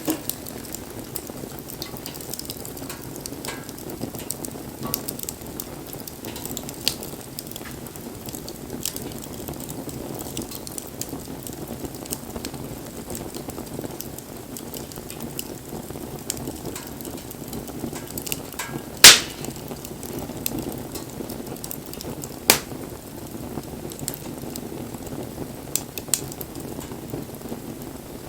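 Wood fire burning, a steady crackle with scattered small ticks and two sharp pops, the loudest about two-thirds of the way through and another a few seconds later.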